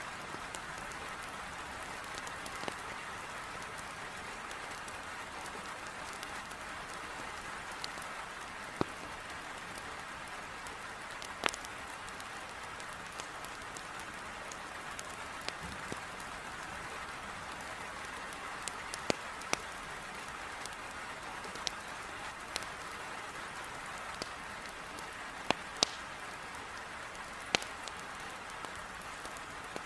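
Heavy rain making a steady hiss, with scattered sharp pops and snaps from a crackling wood fire in a fireplace, a few of them standing out louder.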